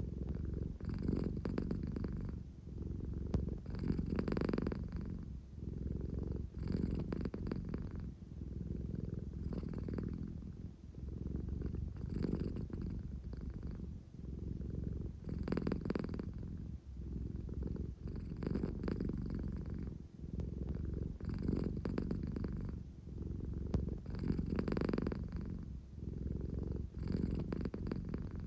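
American Shorthair cat purring close up, a low engine-like rumble that swells and dips with each breath every two to three seconds. It is the purr of a drowsy cat wanting affection.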